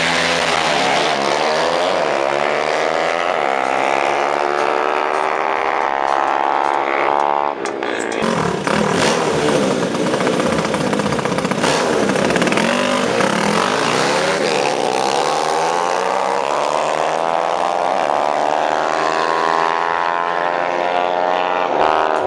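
Motorcycle engines revving hard through the gears on a drag strip: the engine pitch climbs and drops back again and again as the bikes shift up. The sound breaks off sharply about seven and a half seconds in, then more engine runs follow.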